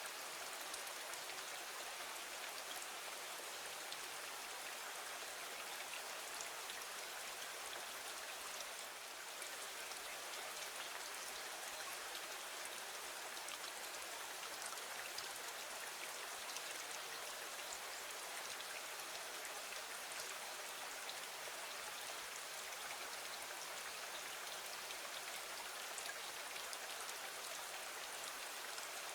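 Steady rain, an even hiss flecked with many small drop ticks.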